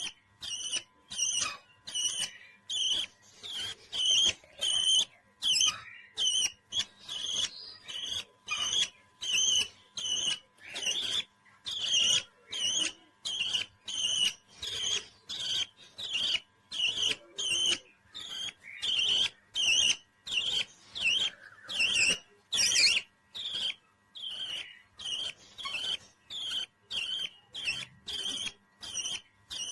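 Parrot calling over and over, short high chirping calls repeated evenly about three every two seconds.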